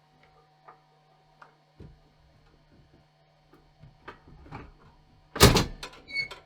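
Scattered light knocks and clicks, then one loud thump about five and a half seconds in, followed by a few smaller knocks, over a faint steady hum.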